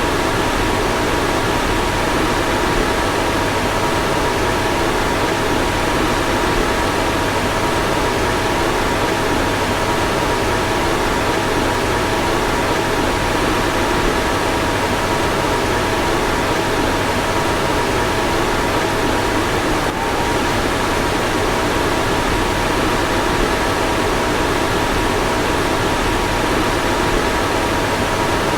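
Car fan blowing steadily: an even rushing noise with a faint steady whine and a low hum underneath.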